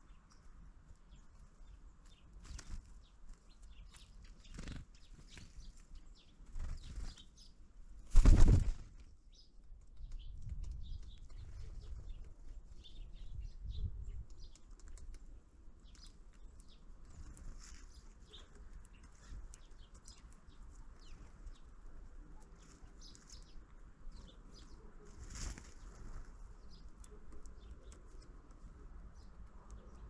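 Small birds at a feeder close to the microphone: scattered light taps and pecks, with a loud, brief flurry of wing flaps about eight seconds in and a smaller one near the end.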